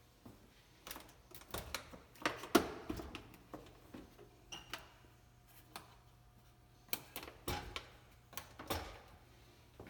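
Irregular knocks and clicks, in two bunches, one about a second in and one near the end.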